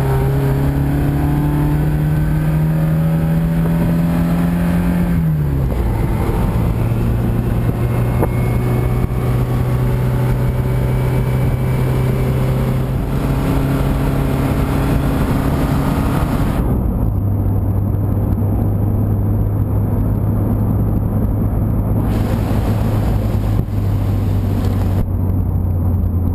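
1971 Fiat 124 Spider's carbureted twin-cam four-cylinder engine and exhaust under way with the top down. The engine note climbs steadily as the car accelerates and falls sharply about five seconds in, as at a gear change. It then holds steady, and drops again and quietens about two-thirds of the way through.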